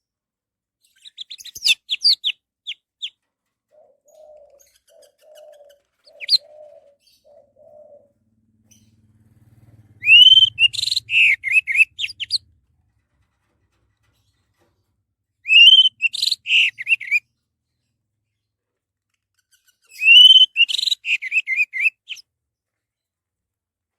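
Orange-headed thrush singing: short phrases of quick whistled notes, each opening on a rising note, repeated every four to five seconds, with the loudest phrases in the second half.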